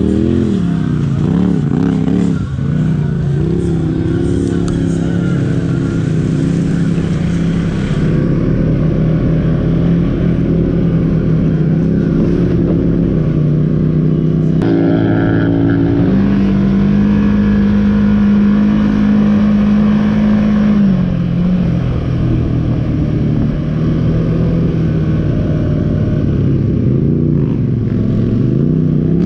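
Off-road vehicle engine running hard and revving, its pitch rising and falling in the first few seconds, then holding steadier. The sound changes abruptly twice, and one stretch holds a higher, steady pitch for several seconds.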